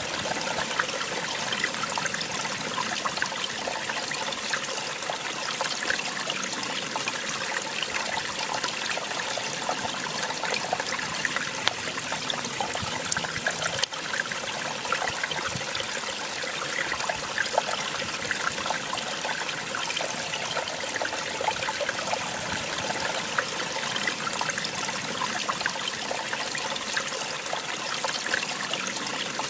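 Small waterfall splashing and trickling steadily, an even rush of falling water. One brief click comes about halfway through.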